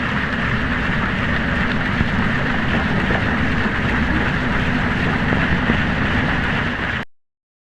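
Hydrophone recording of man-made underwater noise pollution: a steady, dense mechanical rumble with hiss above it that cuts off suddenly near the end.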